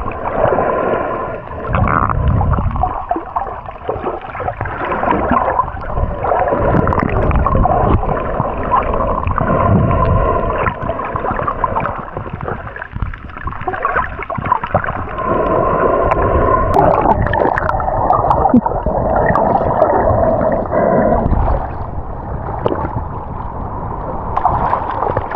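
Muffled underwater sound: water gurgling and bubbling around the camera, dull and cut off in the highs.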